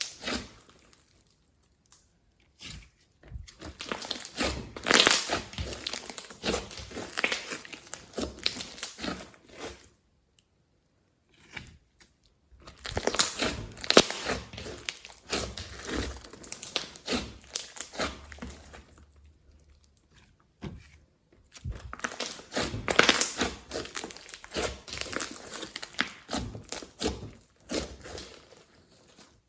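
Hands squishing and stretching slime, making dense sticky clicks and crackling pops in three long runs with short pauses between.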